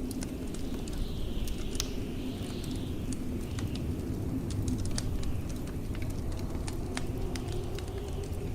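Wood fire crackling, with irregular sharp pops, over the low steady rumble of blizzard wind. A higher howl of wind swells and fades in the first few seconds and again near the end.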